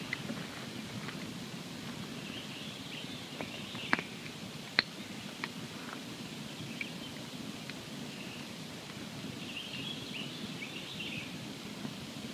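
Campfire burning with a steady low rustle and scattered sharp crackles and pops, two loud pops about four and five seconds in.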